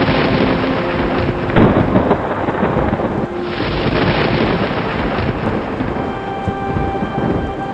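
Thunderstorm with steady heavy rain and a crack of thunder rolling into a rumble about one and a half seconds in. Faint held notes of soft music sit underneath.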